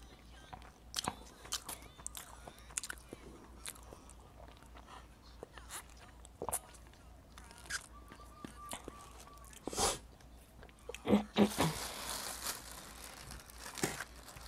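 Close-up eating sounds: chewing and wet mouth clicks from eating summer rolls, with a sip through a straw from an iced drink about eight seconds in. Plastic bag and wrap rustling near the end.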